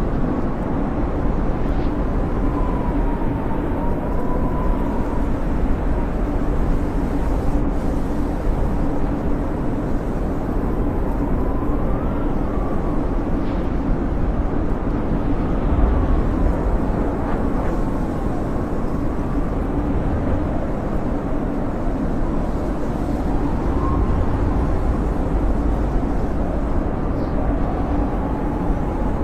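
Blizzard wind blowing steadily with a deep rumble, and a thin whistle that rises and falls in pitch every few seconds.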